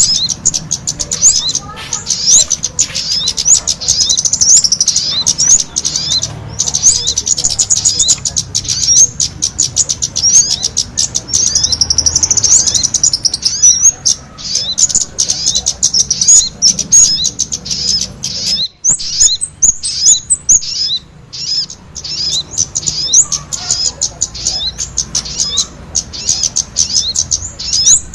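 Bird-lure recording of sogon calls combined with agitated ("ribut") kemade calls: a dense, continuous stream of rapid, high-pitched chirps and trills, with a short break about two-thirds of the way through.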